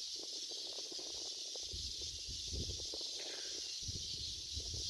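A steady high hiss of outdoor background noise, with faint irregular scuffs and rustles under it.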